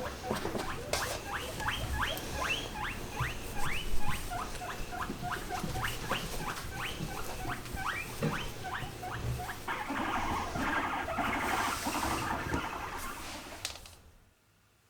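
Guinea pig wheeking: a rapid run of short squeals, each rising sharply in pitch, about three or four a second. They stop about two-thirds of the way through, leaving a softer noise that fades out near the end.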